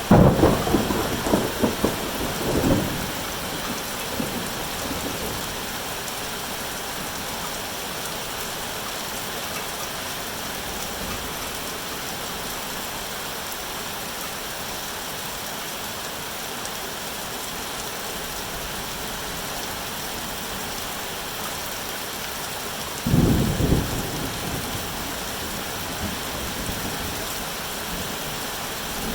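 Steady heavy rain hissing, with thunder rumbling twice: a loud peal in the first three seconds and another some twenty seconds later.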